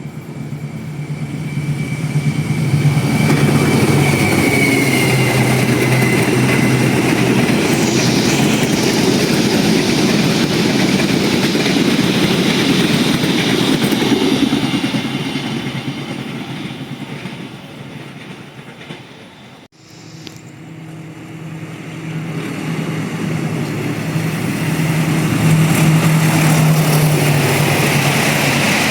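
CC 206 diesel-electric locomotive hauling a passenger train past, its engine rumbling loudly with wheel-on-rail noise and a brief high squeal. It fades, cuts off abruptly about two-thirds of the way through, then the engine rumble builds loud again.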